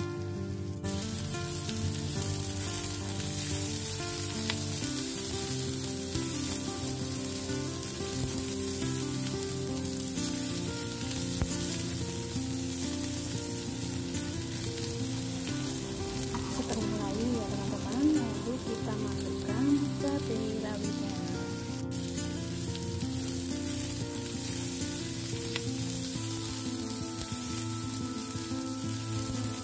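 Sliced shallots and garlic sizzling steadily as they are stir-fried in hot oil in a wok and stirred with a spatula. Two brief louder scrapes come about two-thirds of the way through.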